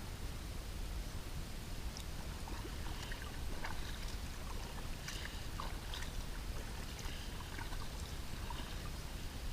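Kayak paddle strokes: small splashes and drips of water from the paddle blades, over a steady low rumble.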